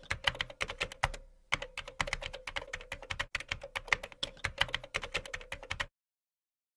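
Rapid, irregular light clicks or taps, several a second, over a faint steady tone. They cut off abruptly near the end.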